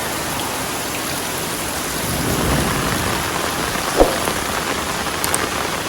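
Heavy rain falling steadily. A low rumble swells about two seconds in, and a single sharp knock sounds about four seconds in.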